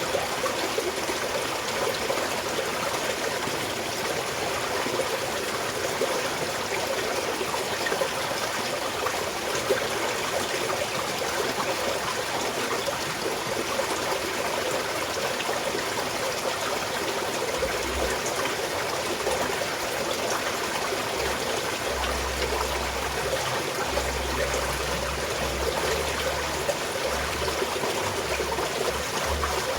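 Small mountain stream flowing and trickling over stones in a steady, even rush of water, with a faint low rumble coming and going in the second half.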